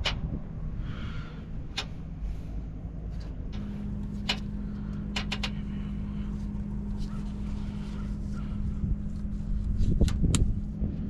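Scattered sharp clicks and knocks of hand tools working on the engine, loudest as a pair near the end, over a steady low hum that gains a steady low tone about three and a half seconds in.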